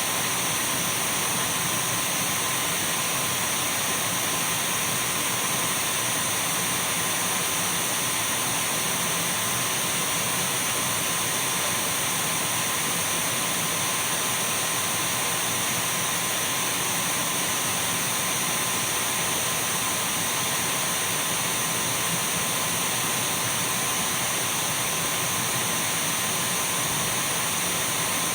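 Dyson V12 cordless stick vacuum running steadily at one speed: a continuous rush of air with a thin steady whine and a fainter high whistle above it.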